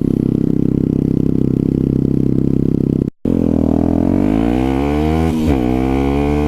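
Motorcycle engine, a Yamaha WR125's single-cylinder four-stroke, running at a steady speed. After a sudden cut it accelerates with rising pitch, drops once at a gear change and climbs again.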